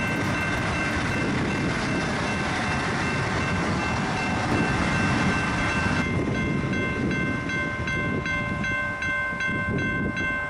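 An Israel Railways IC3 diesel multiple unit passing close by, its engine running and wheels rattling over the track. Over it a level crossing's electronic warning signal sounds a high tone that pulses about three times a second.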